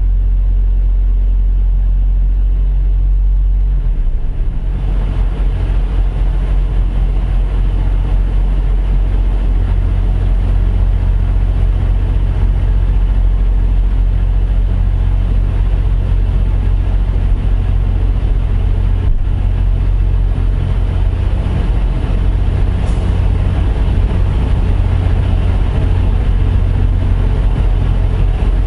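Heavy truck engine running steadily, a deep low hum; about four seconds in it turns rougher and louder and stays that way.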